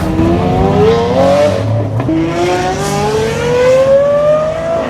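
A car engine accelerating hard, its pitch rising. The revs drop briefly for an upshift about two seconds in, then climb again through the next gear until near the end.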